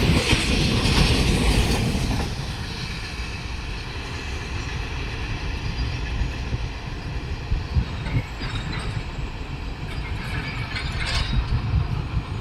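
A freight train rolling past, its wagons' wheels running on the rails in a low rumble; loud at first, it drops off about two seconds in and carries on at a lower level as the train moves away.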